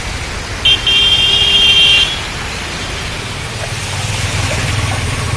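A vehicle horn honks: a short toot, then at once a longer honk lasting over a second, over a steady low rumble of traffic.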